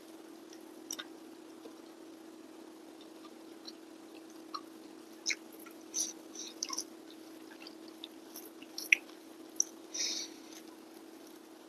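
Close mouth sounds of someone eating rice with their hands: chewing with scattered soft wet smacks and clicks, a few sharper ones in the second half, over a steady low hum.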